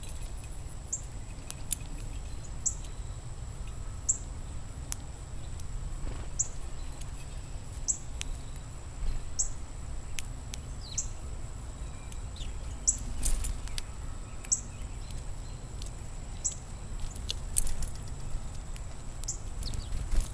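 Small birds chirping: short, high, downward-sliding chirps repeated about once a second, with a few sharp clicks, over a steady low rumble.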